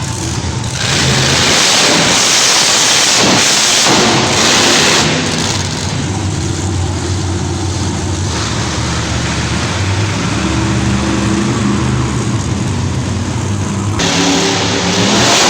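Monster truck engine running and revving, its pitch shifting up and down, with a louder surge of noise from about one to five seconds in.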